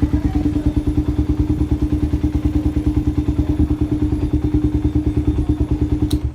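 Honda CB150R's single-cylinder four-stroke engine idling through an aftermarket Akrapovic-style slip-on exhaust: a steady, even exhaust putt of about ten pulses a second.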